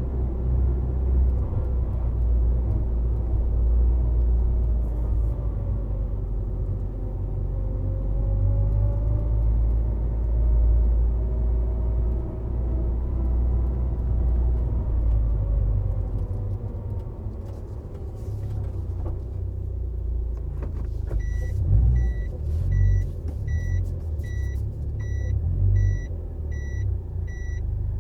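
Subaru WRX STI Spec C's turbocharged flat-four engine and road noise heard from the car, a deep steady rumble with a slowly rising and falling note, through an aftermarket A-RM exhaust. The rumble turns lighter and more uneven past the middle, and near the end a short electronic beep starts repeating about twice a second.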